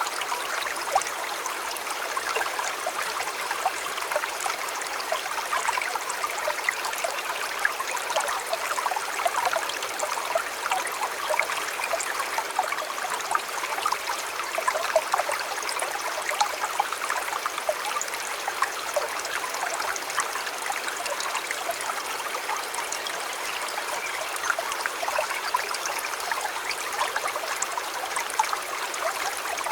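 River water flowing steadily, a continuous babble of many small splashes and gurgles.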